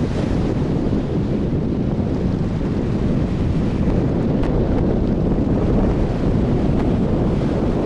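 Wind blowing hard across the microphone, a steady, loud low rumble.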